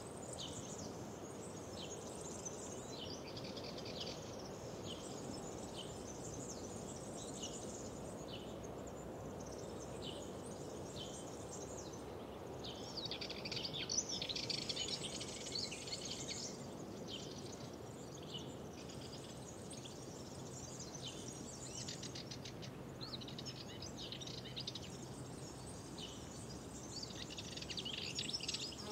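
Several songbirds singing and chirping in quick short phrases over a steady low background noise, with a louder, denser burst of song about halfway through.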